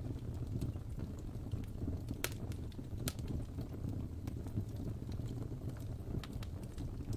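Wood fire in a fireplace crackling: a steady low rumble of burning with scattered sharp pops and snaps, two louder pops a little over two and three seconds in.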